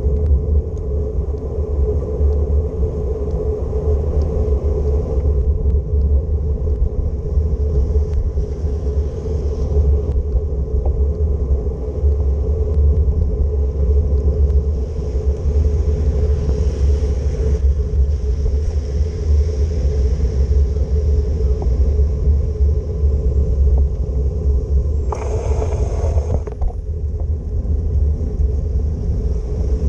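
Steady low rumble of riding a bicycle in the rain: wind buffeting the microphone and tyres on wet city street, with a brief louder hiss about twenty-five seconds in.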